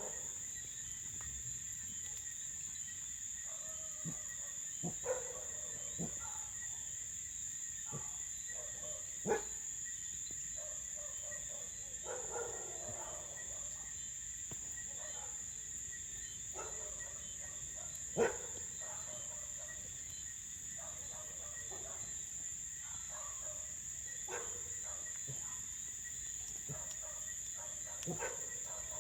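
Crickets chirring in a steady high tone, with a few sharp pops from a crackling wood campfire, the loudest about nine and eighteen seconds in. Short animal calls come and go, strongest about twelve seconds in.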